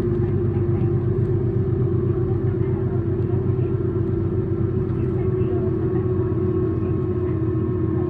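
Tokyu city bus's diesel engine and drivetrain running at high revs while underway, heard from inside the passenger cabin: a steady drone with a clear humming tone, easing slightly in pitch near the end.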